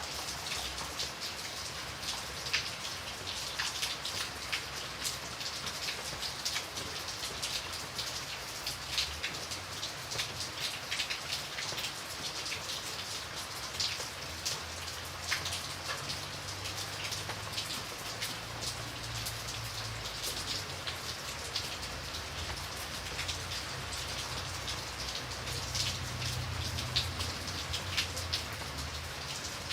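Steady rain falling, with many distinct drops pattering on a surface over an even hiss and a soft low rumble underneath.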